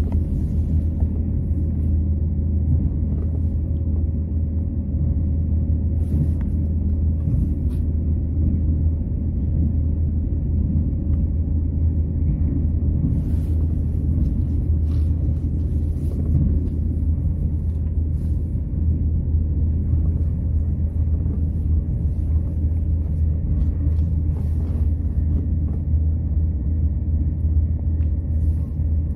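Irish Rail diesel train running, heard from inside the carriage: a steady low rumble with a strong drone and a few faint clicks scattered through.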